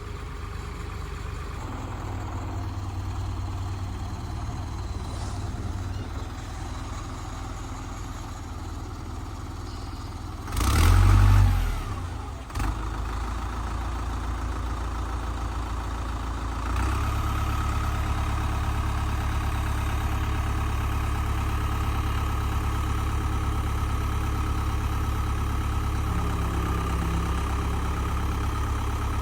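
Old tractor's engine running while the tractor is stuck in soft, marshy ground. A brief loud rumble comes about eleven seconds in, and from about seventeen seconds on the engine runs louder and steadier, as if at higher revs.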